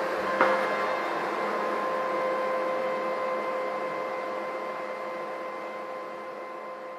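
Steady machine hum with a hiss and a few steady tones, with one sharp click about half a second in; the sound slowly fades toward the end.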